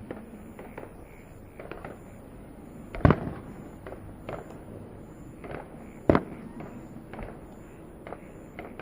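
Fireworks bursting overhead in the finale of a display, a string of bangs at irregular intervals, the two loudest about three and six seconds in.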